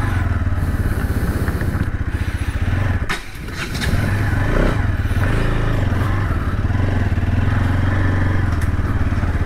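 Bajaj Pulsar NS200's single-cylinder engine running under way as the bike pulls away at low speed. The engine note drops briefly about three seconds in, then picks up again and holds steady.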